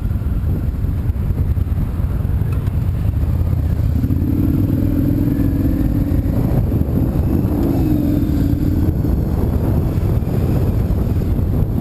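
Car on the move: steady engine and road rumble, with a louder engine note wavering from about four to nine seconds in.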